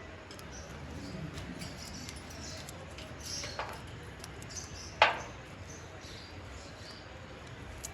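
Parrot making a few short high chirps and small clicks, with one sharp, louder click about five seconds in.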